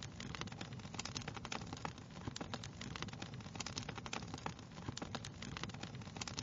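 Wood fire crackling steadily: many small irregular pops and snaps over a low hiss and rumble of burning logs.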